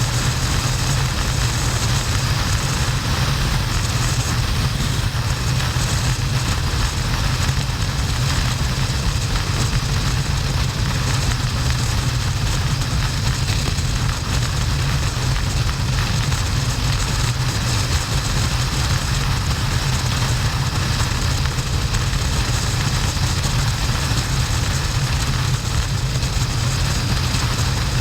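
2009 Harley-Davidson XL1200N Sportster's V-twin engine running steadily at cruising speed, with heavy wind noise rushing over the helmet-mounted action camera.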